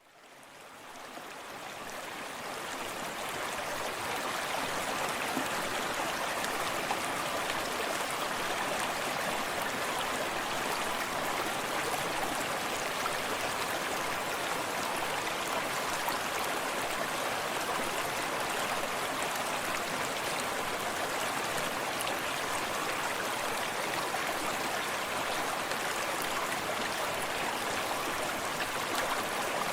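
Small forest stream running steadily, water splashing and gurgling over stones, fading in over the first few seconds and then holding level.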